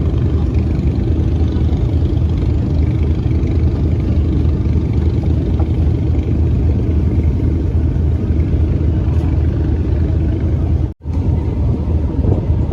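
Fishing boat's engine running steadily with a deep, even rumble, heard aboard, with a brief drop-out about eleven seconds in.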